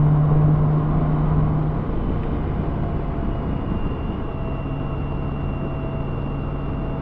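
BMW K1600B's inline six-cylinder engine running steadily on the move, a low even hum under wind and road noise. The hum fades about two seconds in and comes back a few seconds later.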